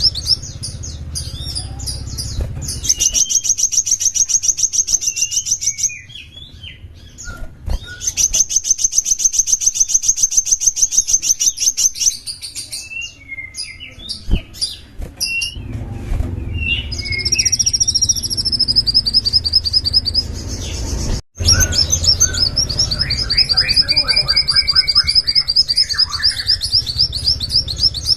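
Small songbird singing long, fast trills of rapidly repeated high notes, broken by short pauses filled with twittering. The sound cuts out abruptly for an instant about 21 seconds in.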